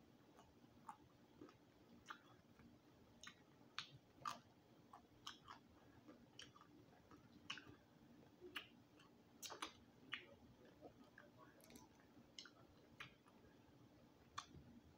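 Faint close-up chewing of crispy roasted quail: irregular sharp mouth clicks and small crunches, sometimes several in a second, with pauses between.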